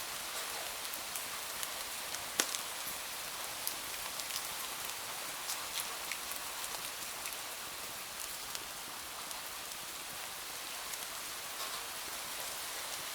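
Steady rain hiss with scattered sharp little pops and ticks, one louder pop about two and a half seconds in.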